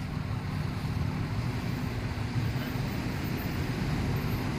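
Steady low rumble of a vehicle engine running, with a constant hum.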